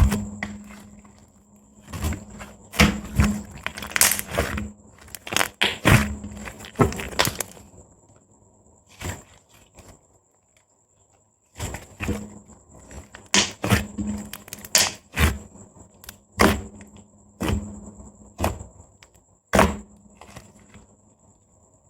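Soft white slime worked by fingers: a series of sharp, wet pops and sticky clicks as it is pressed and stretched and air bubbles in it burst, some in quick clusters. There is a lull of a few seconds in the middle.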